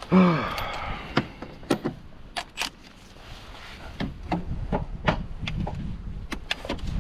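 Scattered sharp clicks and knocks of hand tools and metal car parts being handled during gearbox refitting, with a short pitched sound falling in pitch right at the start.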